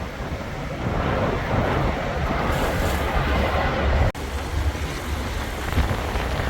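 Truck running, with a steady low rumble and a rushing wind-and-road noise, broken by a brief cut about four seconds in.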